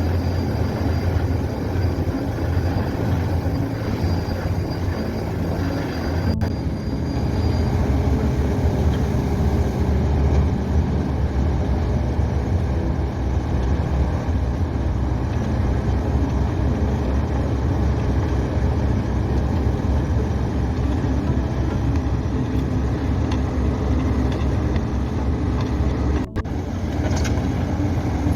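Pile-driving rig drilling a steel pipe pile: heavy machinery running steadily with a loud, deep rumble, briefly broken twice.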